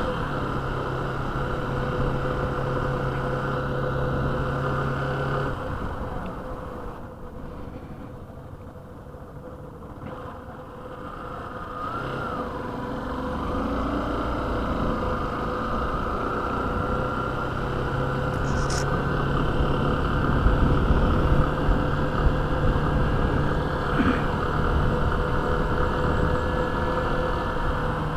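Motorcycle riding through town traffic, engine running under a rush of noise; it eases to a quieter spell about a quarter of the way in, then picks up again. A few short clicks come in the second half.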